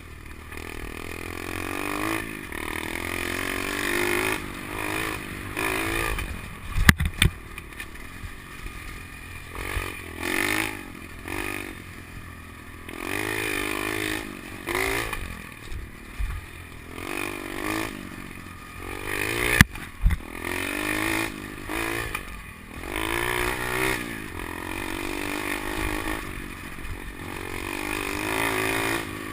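SSR 125 pit bike's single-cylinder four-stroke engine, fitted with an FMF Powercore 4 exhaust, revving up and dropping back over and over as it is ridden around a dirt track. The choke was left on by mistake, which kept the bike from reaching full throttle. Two sharp knocks come about 7 and 20 seconds in.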